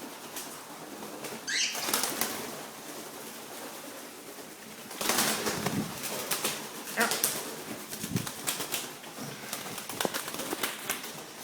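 Cockatiels flapping their wings in several short bursts, the birds spooked, with a brief rising call about two seconds in.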